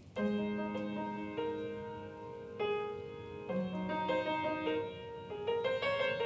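Solo piano playing the slow introduction to a musical-theatre song: sustained chords, a new one struck every second or two, with no voice yet.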